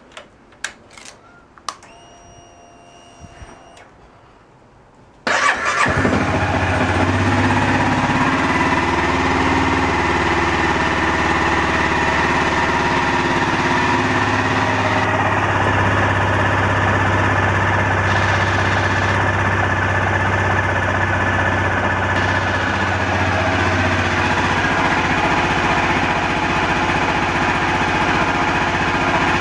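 Cold start of a Honda CBR250R's single-cylinder engine. A few clicks and a short steady whine come first, then about five seconds in the engine fires at once and settles into a steady cold idle.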